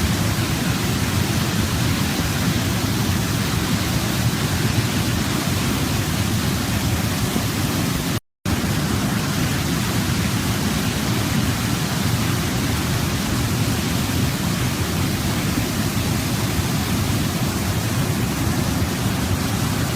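Waterfall: a steady, even rush of falling water, heaviest in the low range. It cuts out to silence for a split second about eight seconds in.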